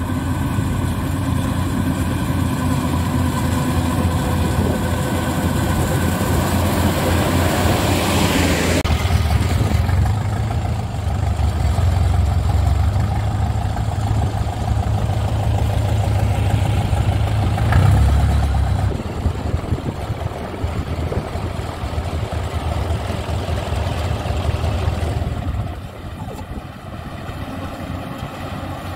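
Yanmar rice combine harvester running, with the steady low drone of its diesel engine. A louder rushing noise builds about a quarter of the way in and stops abruptly, and the overall level drops near the end.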